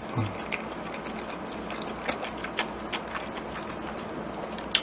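Close-miked chewing of a mouthful of jjajangmyeon noodles: soft, irregular wet mouth clicks and smacks, with a short hum at the start.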